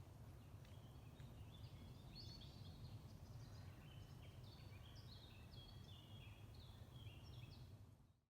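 Faint birdsong, short high chirps and quick falling phrases repeating, over a steady low rumble; it all fades out near the end.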